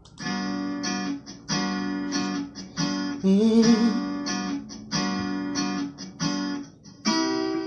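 Song intro: acoustic guitar chords strummed in a steady repeating pattern, with a short sliding sung note about three seconds in.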